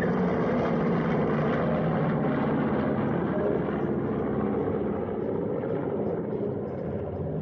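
Piston-engine warbird aircraft making a pass, their propeller engines droning steadily and easing off slightly in the second half.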